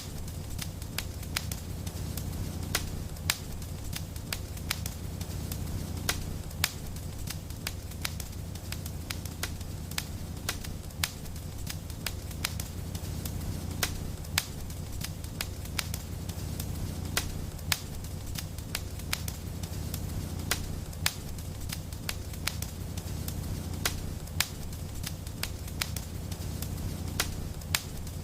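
Wood fire in a fireplace crackling: irregular sharp pops and snaps, often several a second, over a steady low rumble.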